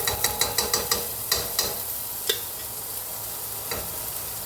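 Diced carrots, celery and onion sizzling in ghee in a pot, with a quick run of sharp clicks of a utensil against the pot in the first second and a half as they are stirred, then a few single clicks.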